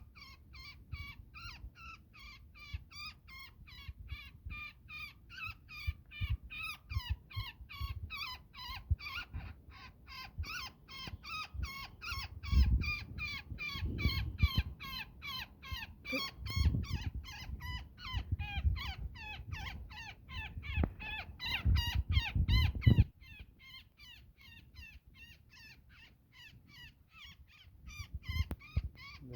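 A woodpecker trapped in a net calling over and over, a fast run of short high calls about four a second that thins out after about 23 seconds. Low bumps and rustling of handling come in the middle stretch.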